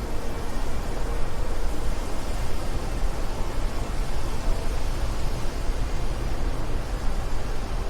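Steady wind: a deep rumble with a lighter hiss above it, its loudness wavering a little.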